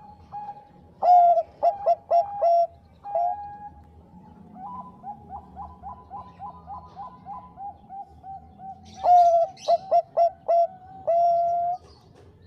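Zebra dove (Bangkok-line perkutut) cooing in two loud bursts of quick staccato notes, about a second in and again around nine seconds in. The second burst ends on a longer held note, and quieter rapid cooing runs between the bursts.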